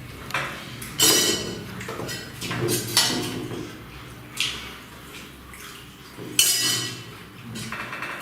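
Plates and food being handled while parotta and duck curry are eaten: a run of scrapes and knocks against the dishes, the loudest about one, three and four and a half seconds in and again about six and a half seconds in.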